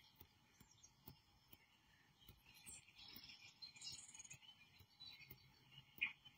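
Near silence with a few faint, high bird chirps coming from a TV speaker playing a bird video.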